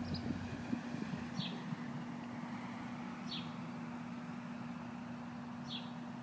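A bird gives short, high, descending chirps, three of them about two seconds apart, over a steady low mechanical hum like an idling engine.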